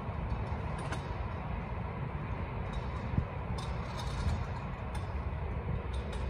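Steady low rumble of background noise, with a few faint ticks about a second in and again near three seconds.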